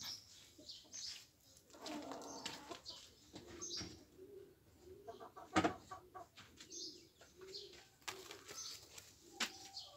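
Faint, low bird calls repeated in a short series through the middle, with scuffs and a sharp knock a little past halfway.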